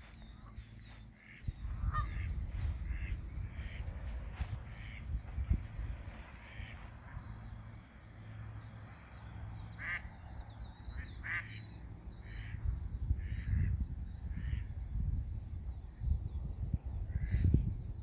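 Geese calling with short honks, one every second or so, over a low steady rumble.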